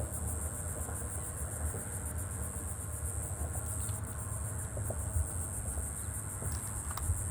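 Steady high-pitched insect buzz, pulsing finely, over a constant low rumble of wind, with a few faint clicks.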